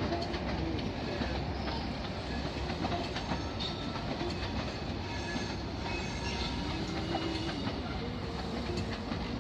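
A train moving along the platform at a railway station, its wheels running over the rails with a steady low rumble and a few brief, faint high-pitched squeals.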